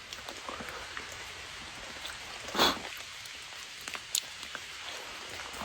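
Light rain making a steady, soft patter, with one brief louder burst of noise about halfway through and a few faint ticks later.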